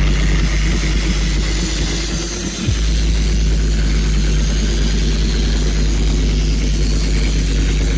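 Loud, steady sub-bass tones from a large concert PA system's subwoofers during a sound check, with a brief break about two and a half seconds in before the bass cuts back in sharply.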